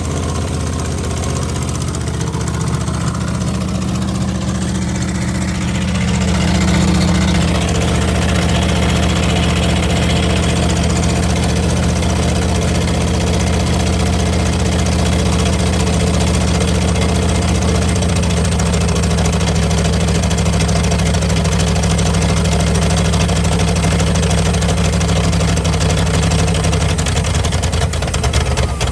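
1981 Oldsmobile 307 V8 with an Edelbrock carburetor running steadily at idle after a cold start, getting a little louder about seven seconds in.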